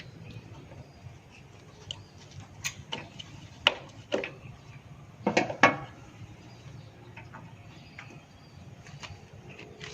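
Scattered light clicks and knocks of objects being handled, the loudest two close together about five and a half seconds in.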